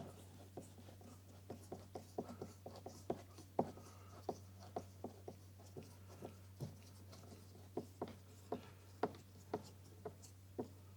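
Small screws being turned in by hand with a screwdriver: a string of faint, irregular clicks and scrapes, about two or three a second, over a low steady hum.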